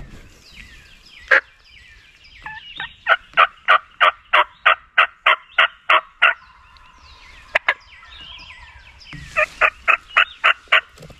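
Turkey yelping, loud and close: a single note, then a run of about a dozen evenly spaced yelps at roughly three or four a second, and a shorter run of about six near the end. Faint songbird chirps sit beneath, with a sharp double click between the runs.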